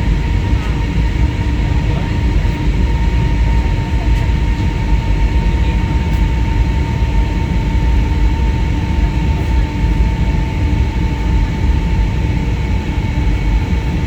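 Cebu Pacific airliner's engines running steadily: a constant whine over a dense low rumble.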